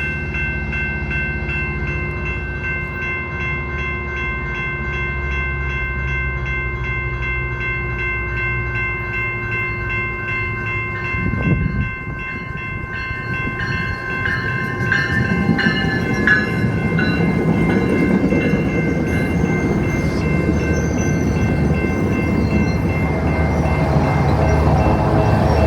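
Railroad crossing bells ringing in a steady pulse while a Metrolink commuter train's diesel locomotive drones. About halfway through there is a sudden loud burst, and then a rising rush of wheel and rail noise as a train passes through the crossing.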